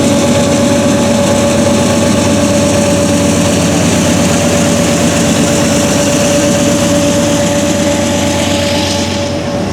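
Diesel-electric freight locomotives of a Norfolk Southern train running steadily at close range, with a constant whine over the engine sound.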